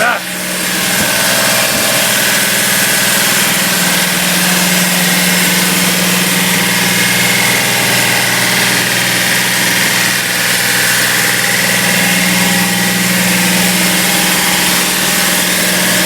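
Freshly built Nissan L30 straight-six race engine on triple Mikuni 44PHH carburettors, running steadily just after its first start-up. It is running a little lean.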